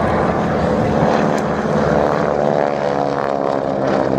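Boeing Stearman biplanes' Pratt & Whitney radial engines running loud and steady in flight, their propeller drone shifting a little in pitch as they pass.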